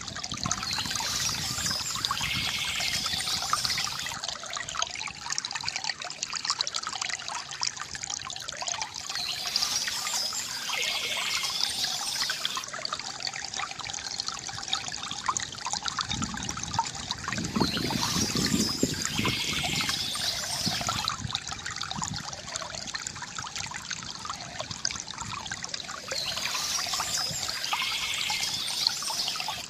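A stream trickling and gurgling steadily. The water sound swells in a pattern that repeats about every eight and a half seconds, with a deeper gurgle near the middle.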